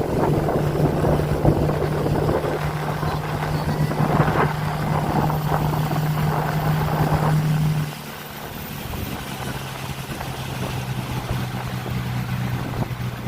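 Small motorboat engine running steadily with wind and water noise; about two-thirds of the way through, the engine note drops lower and quieter as it throttles back.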